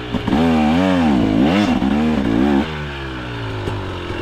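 2025 KTM 300 XC two-stroke engine revving up and down in several quick swells as the throttle is worked under load. About two and a half seconds in, the revs drop back to a lower, steadier run.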